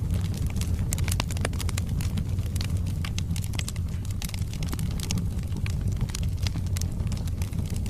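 Wood fire burning in a fireplace: a steady low rumble of the flames with many small, sharp crackles and pops from the burning logs at irregular intervals.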